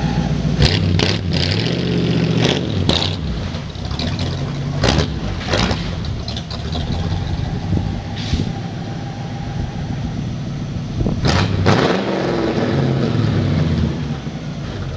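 Stock Ford 302 two-barrel V8 of a 1971 F-100 running through Magnaflow mufflers, its pitch rising and falling as it is revved. Several brief sharp sounds stand out over it, about a second in, near the middle and toward the end.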